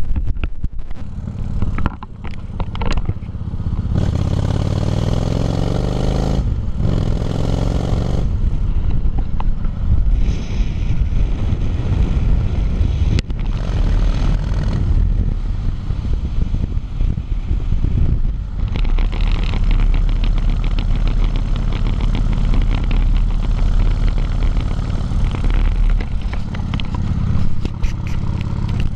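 Motorcycle engine running during a ride, with wind rushing over the camera microphone. The engine pitch rises between about four and eight seconds in, then runs fairly steadily.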